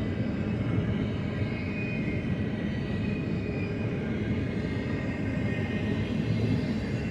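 BNSF double-stack intermodal freight train rolling past: a steady rumble of wheels on rail, with a faint high whine above it.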